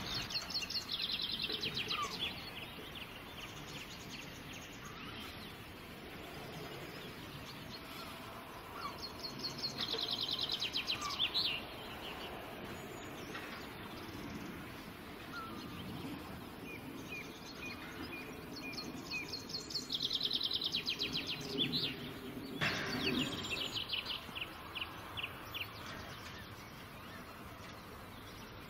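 A songbird singing three bouts of fast, repeated high notes that step down in pitch, about ten seconds apart, with a few single chirps between them, over a low steady background noise.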